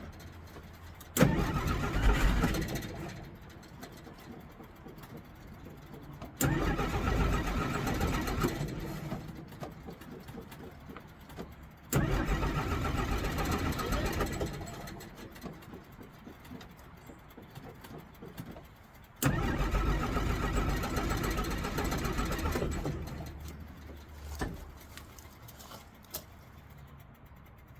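1963 Jeep Gladiator's engine being started four times: each time it turns over and fires suddenly, runs for a few seconds, then dies away. It is hard-starting and won't stay running.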